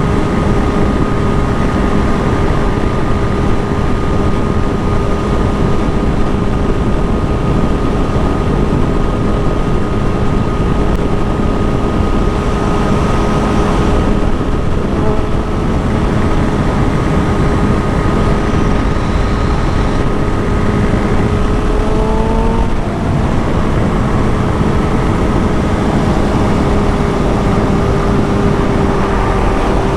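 Kawasaki Ninja ZX6R's inline-four engine cruising at a steady speed, heard from the rider's position with road and wind noise. About 22 seconds in the engine pitch rises briefly and drops, then settles steady again.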